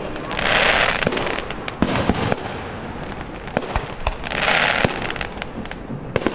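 Fireworks display: scattered sharp bangs of shells bursting at uneven intervals, with two spells of dense hiss under a second long, about half a second in and again about four seconds in.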